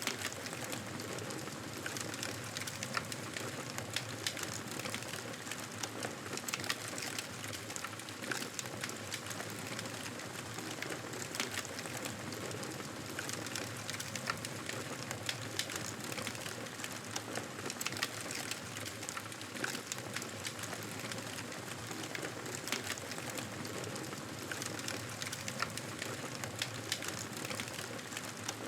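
Wood fire crackling steadily, with frequent small sharp pops and snaps over a soft hiss.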